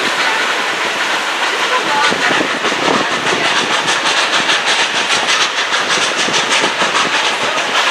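Steam train on the narrow-gauge Silverton line running along a canyon, heard from an open coach: a rushing noise with an even rhythmic clatter that sets in about three seconds in, at a few beats a second. The rushing of the fast river beside the track mixes in.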